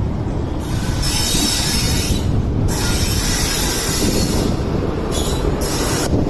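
LHB-coach express train running past at speed: a loud, steady rumble of wheels on the rails, with a high hiss that comes and goes.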